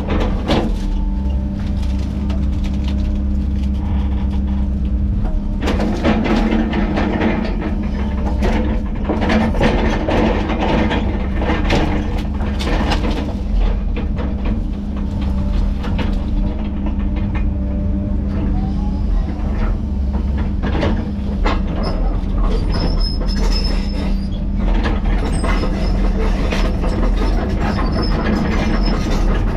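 Heavy tracked machine's diesel engine running steadily under load, with an irregular metallic clatter throughout.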